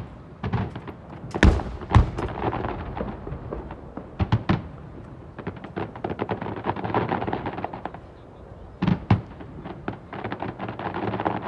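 Fireworks display: a handful of sharp shell bursts, two pairs of them about half a second apart, between stretches of dense rapid crackling.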